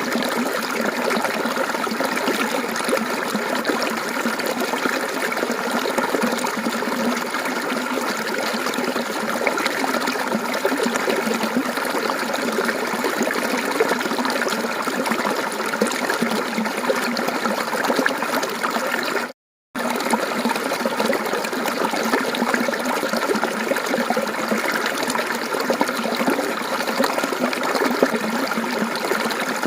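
Mountain stream water running and trickling over rocks in a steady, even babble. About two-thirds of the way through it cuts out completely for a split second, then resumes.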